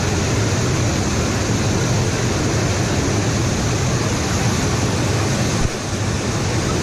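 Waterfall cascade: a loud, steady rush of falling water, dipping briefly near the end.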